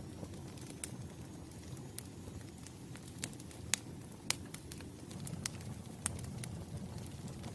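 Wood campfire burning: a low steady rumble of flames with irregular sharp crackles and pops, two louder pops a little past the middle.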